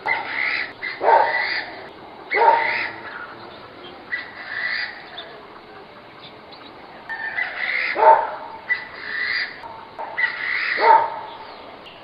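Several birds calling in the early morning. Loud, harsh calls come every few seconds, with smaller chirps in between.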